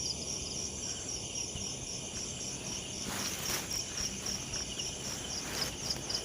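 Night insects, likely crickets, chirping steadily in rapid, even pulses. A brief rustling noise comes about three seconds in, and another shorter one near the end.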